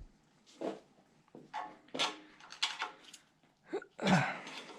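Metal tools clinking and clattering in a few separate knocks, the loudest about four seconds in.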